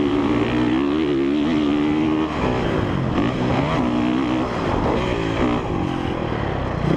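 2017 Honda CRF450R's single-cylinder four-stroke engine being ridden hard on a motocross track, its pitch rising and falling as the throttle is opened and closed through the gears.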